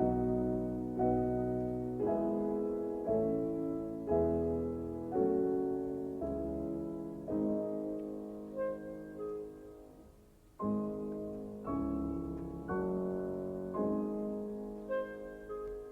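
Piano playing soft, slow chords about one a second, each left to fade. Between them a clarinet gives the two-note falling cuckoo call a few times.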